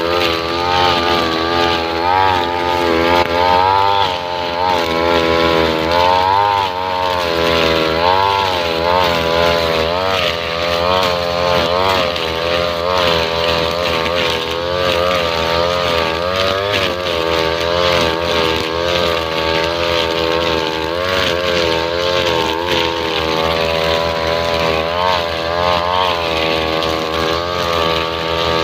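Two-stroke brush cutter engine running a nylon-line trimmer head, its pitch rising and falling again and again as the throttle and cutting load change.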